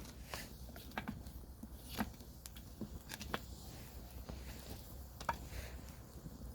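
Campfire crackling: irregular snaps and pops of burning wood, with sharper pops about two, three and five seconds in, over a low steady rumble.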